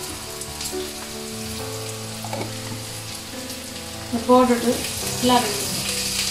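Sliced onions and green chillies sizzling steadily in hot oil in a nonstick wok, with fennel seeds tipped in at the start and a wooden spoon stirring them. Two brief, louder pitched sounds come about four and five seconds in.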